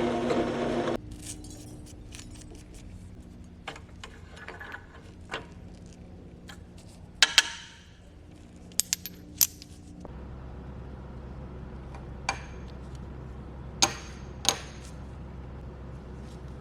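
A power tool's motor cuts off about a second in, followed by scattered sharp metallic clinks of small metal parts and tools being handled, over a low hum.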